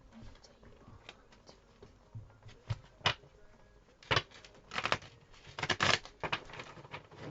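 Tarot cards being shuffled and handled: irregular soft rustles and flicks, louder and busier in the second half.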